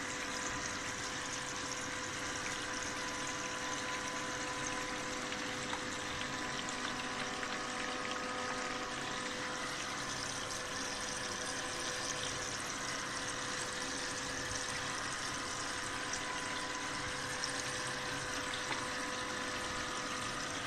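Water spraying from a hose-fed spray bar and running steadily down a small sluice box over silicone riffle mats, with a faint steady whine underneath.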